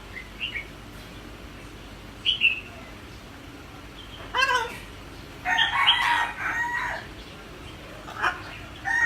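Pet parrot calling: a few short chirps, a pitched call that bends downward about four and a half seconds in, then a longer harsh squawk lasting about a second and a half, with one more brief call near the end.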